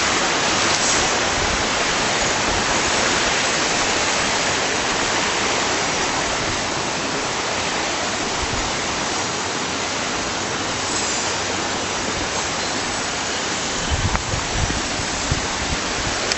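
Steady rushing of water from a stream or small waterfall, with a few low bumps on the microphone near the end.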